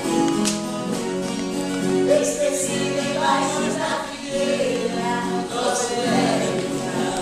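Caipira folk song sung by several voices together to viola caipira accompaniment, with long held notes.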